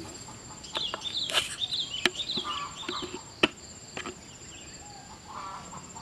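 Birds calling in rapid, high chirps, mostly in the first half, with a few lower calls later, over a steady high-pitched insect drone. A few sharp clicks.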